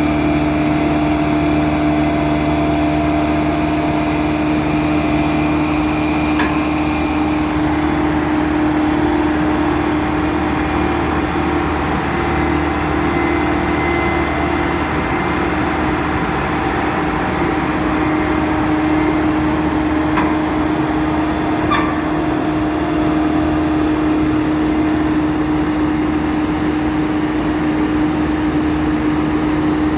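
Heavy diesel engine running at a steady, unchanging speed, with a few faint clicks.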